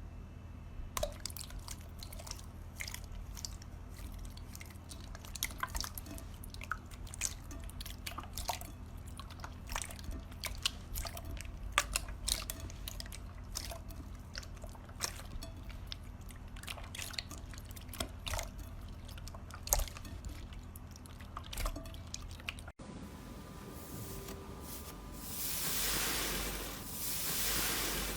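Slime being squeezed and worked by hand, making many irregular wet clicks and pops. An abrupt cut about 23 s in is followed by slow, repeated swelling rustles, about one every second and a half.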